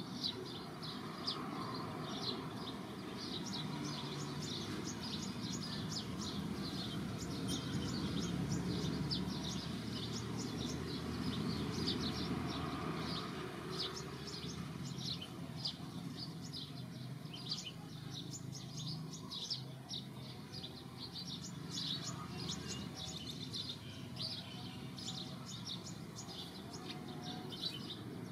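Small birds chirping continuously, a rapid run of many short high chirps over a low, steady background noise.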